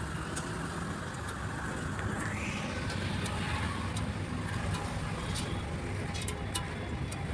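Steady vehicle noise with a low rumble, a brief swell about two seconds in, and scattered faint clicks.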